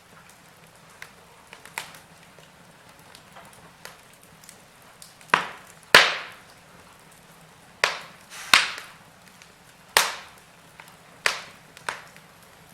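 Wood fire crackling in a fireplace: sharp, irregular pops and cracks over a quiet bed of burning, with the loudest pops bunched in the middle and latter part.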